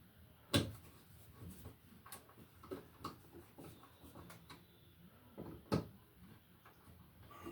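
Faint clicks and taps of a hand screwdriver and GFCI receptacle being handled as its mounting screws are driven by hand into the electrical box, with two sharper knocks, one about half a second in and one near six seconds in.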